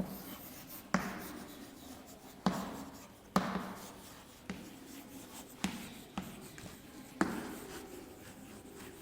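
Writing on a board: a run of sharp taps, each fading into a short stroke, about seven in nine seconds.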